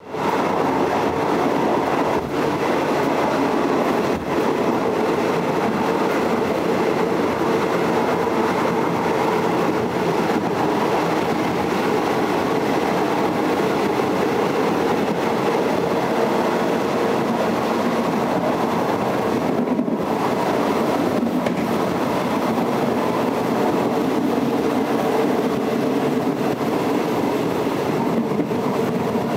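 Running noise of a sleeper-car passenger train heard from inside the carriage: a steady, loud rumble and rattle of wheels on track and the car body, with a few faint clicks.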